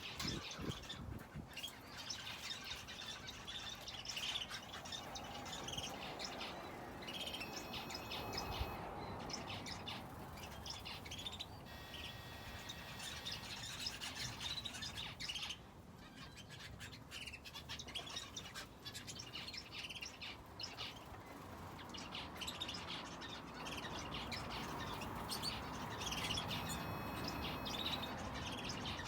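Finches and a canary in an aviary chirping and twittering in many quick, short, high calls, thinning out briefly now and then.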